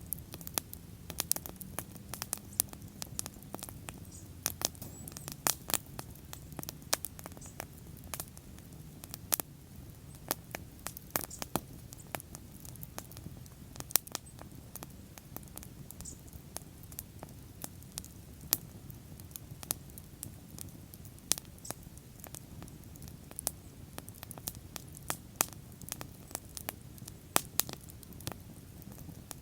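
Wood fire crackling and popping: irregular sharp snaps, many a second, over a low steady rumble of the flames.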